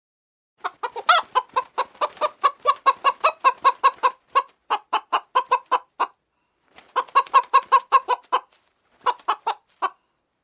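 Chicken clucking in rapid runs of short clucks, about four to five a second, in three bouts with short pauses between them.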